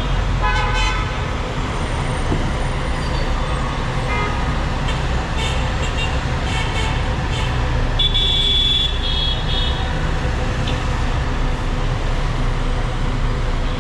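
Busy city street traffic: a steady rumble of car, bus and motorbike engines and tyres, with car horns honking. One horn sounds just after the start, and a shrill horn blast about eight seconds in is followed by a few short toots.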